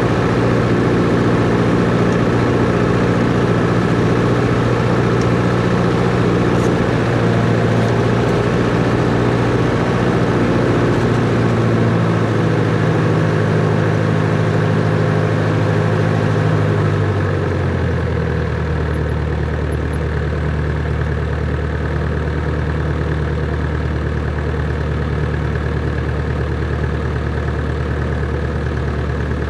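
Cessna 140's four-cylinder piston engine running steadily, then throttled back about seventeen seconds in to a lower, slower speed.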